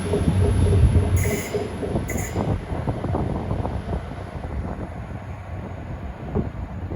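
Transport for Wales Class 175 diesel multiple unit pulling away, its engine hum and wheel rumble fading as it goes. Two brief high-pitched squeaks come about one and two seconds in.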